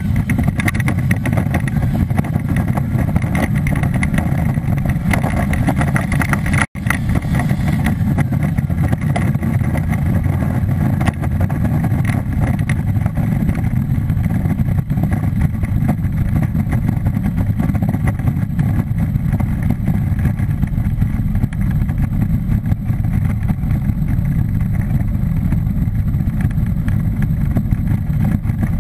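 Ice-racing car's engine running hard under throttle, with steady wind and tyre noise on the onboard microphone; the audio cuts out for an instant about seven seconds in.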